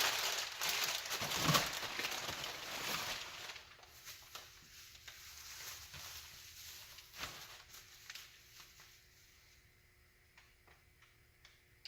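Packing paper crumpling and rustling as it is pulled out of a cardboard box, busy for the first three or four seconds, then fainter rustles and a few light knocks.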